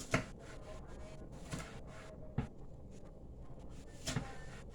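Kitchen knife chopping on a cutting board: a few separate sharp knocks, the loudest just after the start and others about halfway and near the end, with faint cutting sounds between them.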